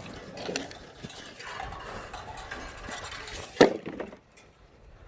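Metal pieces clinking and clattering as they are handled, with one sharp bang about three and a half seconds in.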